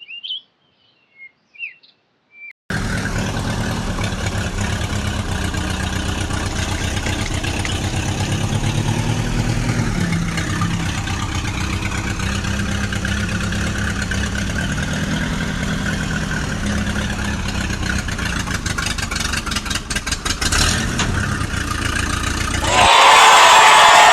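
Vehicle engine sound idling with a steady, pulsing low rumble, which starts abruptly about three seconds in. Near the end it gives way to a brief, louder hissing noise.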